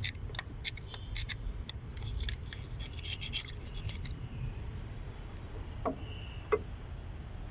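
Quick hand scraping and rubbing strokes, cleaning grime off engine parts, over a steady low hum; the strokes thin out about halfway through, and two light knocks come near the end.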